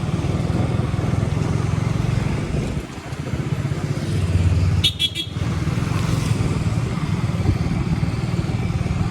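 KTM Duke 200's single-cylinder engine running on the move, its note dropping briefly about three seconds in and picking up again. A short horn beep sounds about five seconds in.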